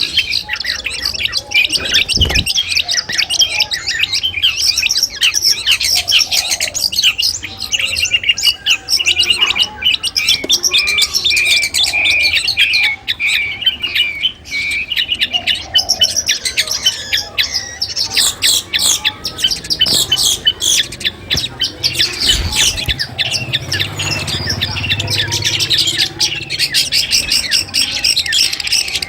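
Long-tailed shrike (cendet) singing: a continuous stream of rapid chirps, trills and harsh squawks, with a run of evenly repeated notes about two a second around the middle.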